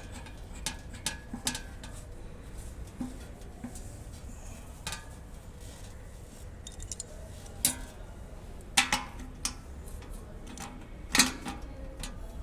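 Scattered clicks, clinks and knocks of parts being handled and fitted back together on a collapsed hose reel drum. Three sharper knocks stand out past the middle and near the end, some with a brief ring.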